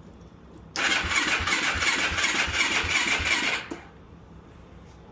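Yamaha YFZ450 single-cylinder four-stroke ATV engine cranked on its electric starter for about three seconds, turning over in a steady rhythm of almost three strokes a second, then stopping abruptly without firing. It is a cold start that will not catch, which the owner puts down to the engine not getting fuel.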